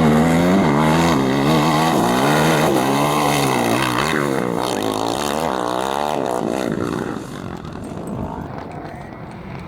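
A competition vehicle's engine revving hard, its pitch climbing and dropping over and over, then fading away about seven seconds in.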